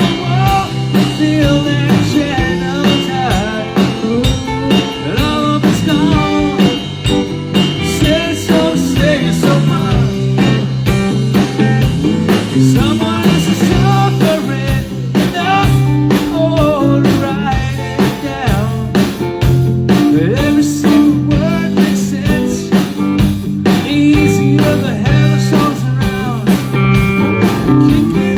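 Live band playing a blues-rock song: electric guitar with bending melodic lines over bass and a steady beat.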